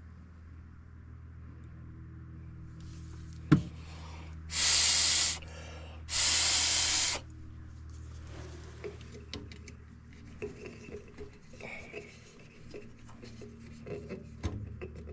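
A sharp click a little over three seconds in, then two short bursts of air hissing through a furnace pressure switch's rubber tubing, each about a second long, as the tubing is blown through to check it. A steady low hum runs underneath, with small handling clicks afterwards.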